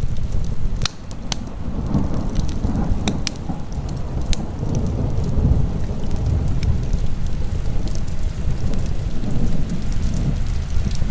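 Heavy rain over a deep, steady low rumble, with sharp pops and crackles of a burning wood fire scattered irregularly through it.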